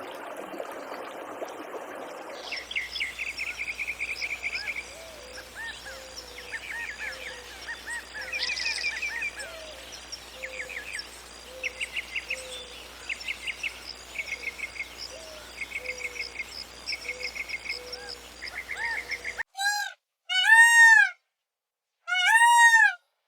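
Songbirds calling after a couple of seconds of steady rushing hiss: repeated short, rapid trills and chirps with a lower call between them. Near the end, loud, drawn-out arching calls come one at a time, with silence between them.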